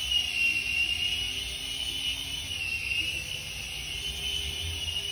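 Sky-rover Knight-vision toy RC helicopter in flight: its small electric motors and rotors give a steady high whine that wavers slightly in pitch, over a low rumble.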